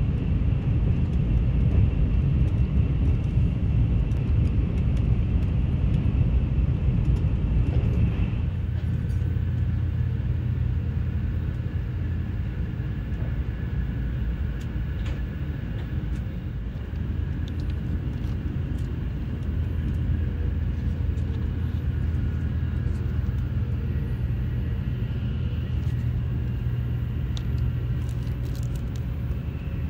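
Steady low rumble of a Shinkansen bullet train running at speed, heard from inside the passenger car. The sound thins and gets slightly quieter about eight seconds in, with faint small clicks throughout.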